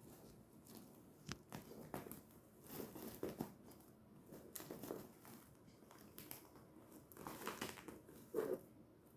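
Dry catnip leaves rustling and crinkling as a Norwegian Forest cat bats and rolls them, in faint, uneven bursts with a few sharp clicks.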